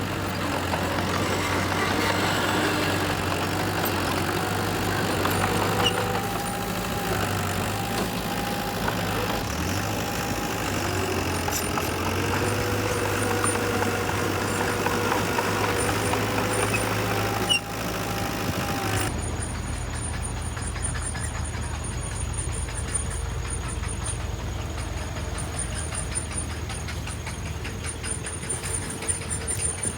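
Heavy construction machinery running, with a steady low rumble and a higher tone that wavers up and down. About two-thirds of the way through, the sound changes abruptly to a steadier, duller rumble.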